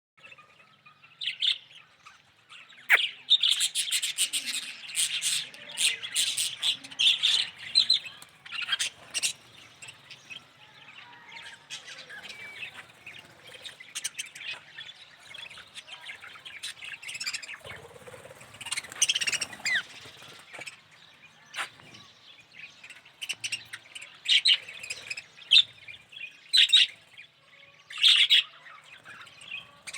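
Budgerigar chirping and chattering in quick runs of short, high chirps, with quieter gaps between the runs.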